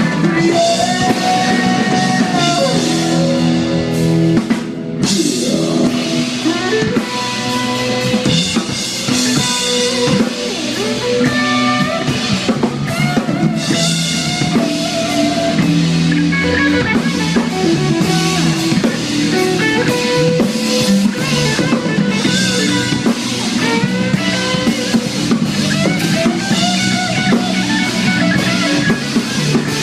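Live rock band playing loudly, with a drum kit driving a steady beat under guitar.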